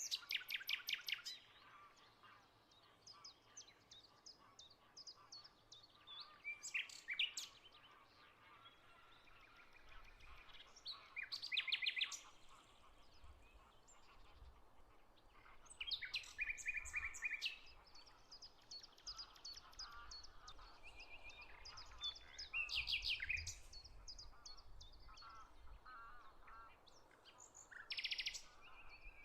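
Songbirds singing outdoors: short phrases of rapid trilled notes come about every five seconds, with fainter chirping from other birds in between.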